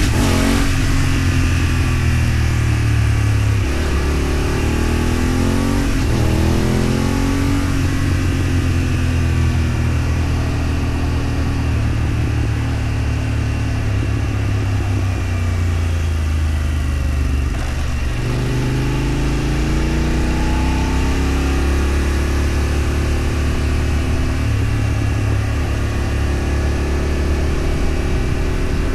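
A road vehicle's engine accelerating while driving. Its pitch climbs and drops back at each gear change, with a longer climb after about 18 seconds, over steady road noise.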